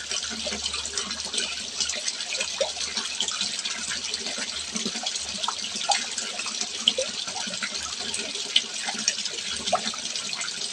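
Water steadily trickling and splashing into a fish pond, with scattered small bubbly plinks.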